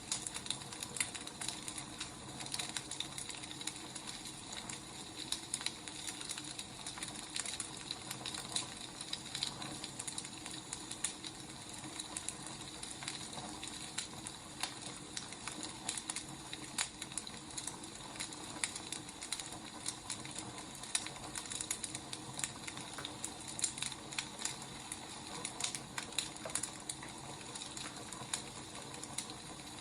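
Burning firewood crackling: many irregular small snaps over a soft steady hiss.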